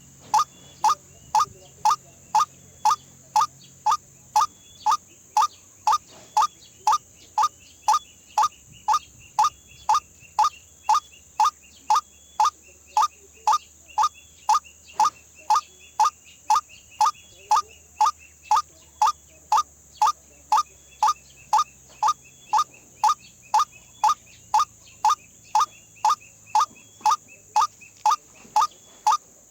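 White-breasted waterhen (ruak-ruak) calling, a short sharp note repeated evenly about twice a second without a break.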